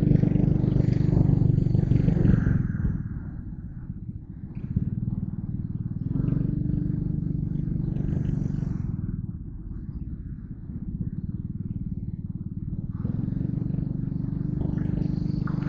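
Yamaha Crypton R motorcycle engine running under way, its note building and easing off as the throttle is opened and closed: strong for the first few seconds, lower twice, then pulling up again near the end.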